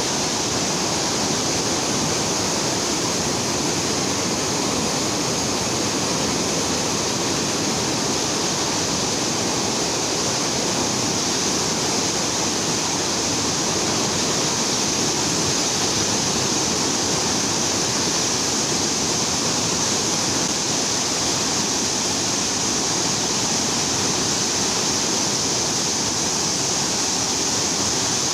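Steady rushing of a large volume of fast-flowing floodwater, an even, unbroken sound with no let-up.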